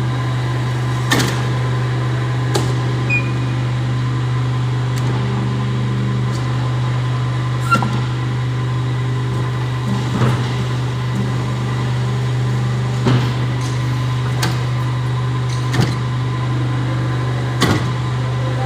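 Hydraulic press machine running: a steady low hum from its motor and pump, with sharp knocks or clanks at irregular intervals of one to three seconds.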